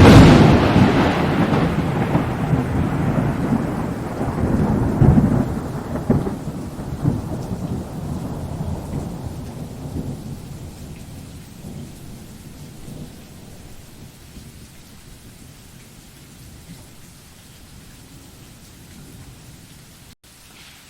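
Thunderclap: a sudden sharp crack, then a low rolling rumble that swells twice and dies away over about ten seconds into a faint steady hiss.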